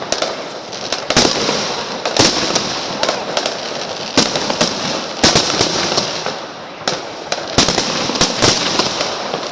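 Fireworks display: a dozen or so sharp bangs at irregular intervals over a steady crackle from glittering fireworks.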